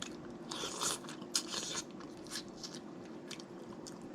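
Snow crab leg shells being cracked and eaten close to the microphone: a longer crunching crackle about half a second in, then a handful of sharp, separate snaps and clicks, with biting and chewing.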